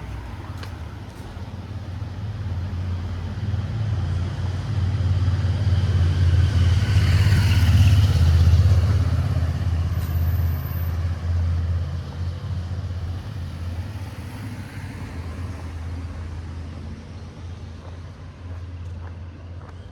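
A motor vehicle passing close by: engine rumble and tyre noise build, peak about eight seconds in, then slowly fade away.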